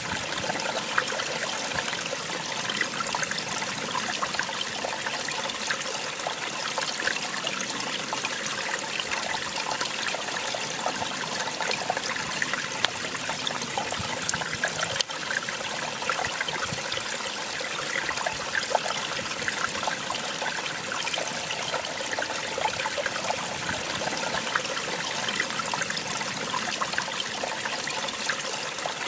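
Small waterfall splashing and trickling steadily, a dense patter of small splashes over an even rush of water. A single brief click about halfway through.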